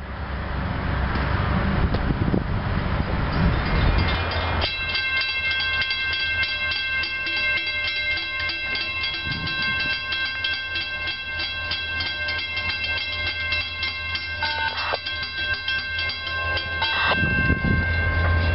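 Train rumbling past a grade crossing. About five seconds in, a crossing warning bell starts ringing steadily with even strokes over a low, steady locomotive drone.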